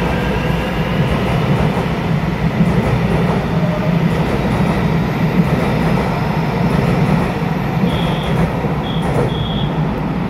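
A ten-car EMU900 electric commuter train pulls out along an underground station platform in a steady, loud rumble of wheels and running gear. A few short high wheel squeals come about eight to nine seconds in.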